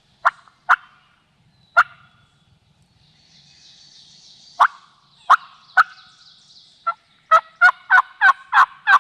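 Wild turkey calls: a few sharp single clucks spaced through the first seconds, then a quick run of about eight yelps at roughly three a second near the end.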